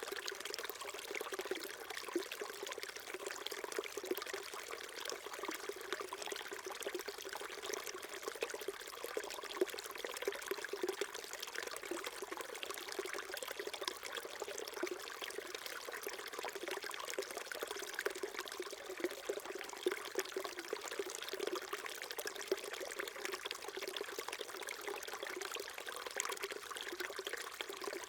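Small mountain stream trickling and burbling over stones, steady and unbroken.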